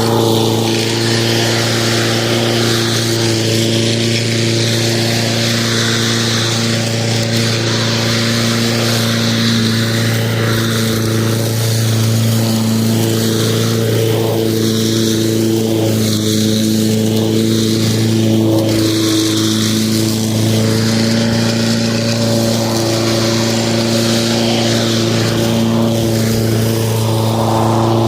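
Lawn mower running steadily at a constant speed, with an unchanging hum.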